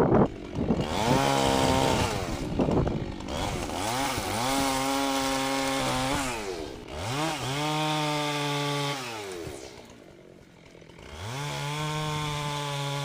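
Chainsaw engine throttled up, held at high speed and let back down about four times, dropping to a quieter idle shortly before the last run-up.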